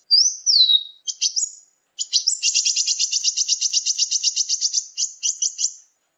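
Lure recording of small songbirds calling: a high, falling whistled note, a few sharp chips, then a fast, even trill of about nine notes a second held for several seconds, ending in a few separate chips.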